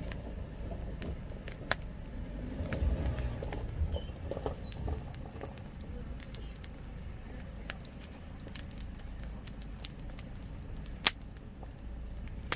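Wood campfire crackling: irregular sharp pops and snaps over a low rumble, with one louder pop about eleven seconds in.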